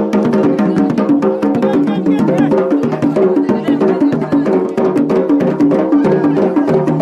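Yemeni wedding procession music: tabl and marfa' drums beaten in a fast, dense rhythm, with a melody playing over them.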